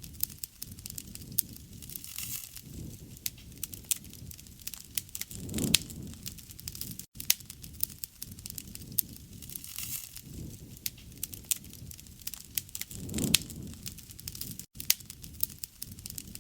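Campfire burning: dense, irregular crackles and sharp pops over a low rush of flame. The sound cuts out for an instant twice.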